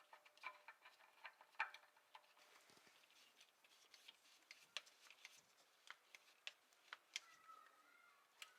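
Near silence with faint, irregular clicks and taps of a new spin-on oil filter being handled and threaded onto the engine by hand, and a brief faint squeak near the end.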